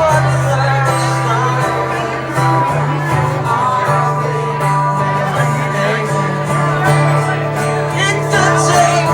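A song played live on guitar with singing.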